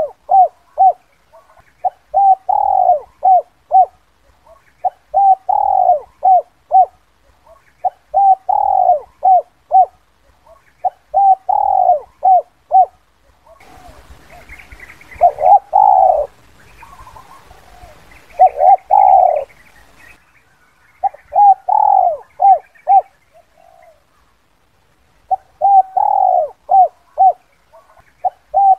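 Spotted dove cooing its 'kuk 2' call: the same short phrase of clipped coos around one longer coo, repeated about every three seconds. About halfway through there is a stretch of faint hiss with higher chirps behind it.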